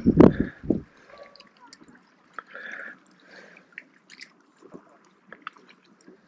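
Water dripping and lapping lightly around a fishing kayak, with scattered faint clicks and ticks. A burst of loud low thumps in the first second.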